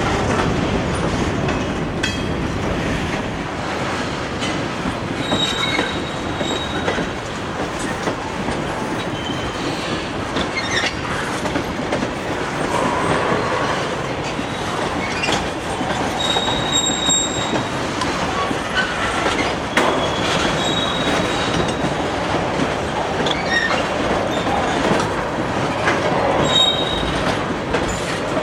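A freight train's cars rolling past, a steady rumble and rattle with short high-pitched wheel squeals now and then and clicks over the rail joints.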